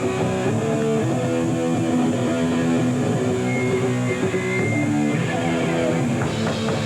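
Live hardcore band playing the opening of a song: a riff on distorted electric guitar over bass guitar, the notes changing every fraction of a second at a steady loudness.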